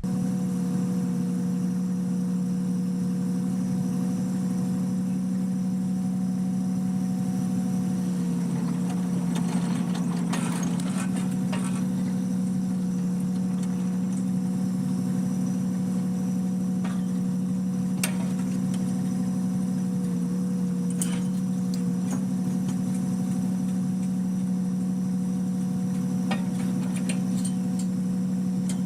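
An engine idling steadily with a constant low hum, with a few faint clicks over it.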